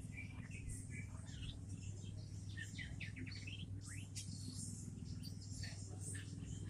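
Birds chirping and whistling in many short, scattered calls, over a steady low hum.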